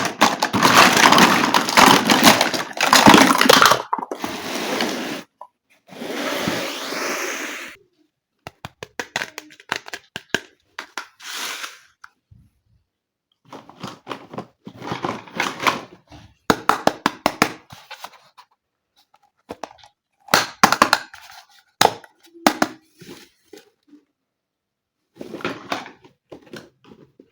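Packaging of a toy kitchen play set rustling and crinkling loudly, then two shorter rustling stretches; after that, small plastic toy pieces clicking, tapping and knocking in scattered short bursts as they are handled.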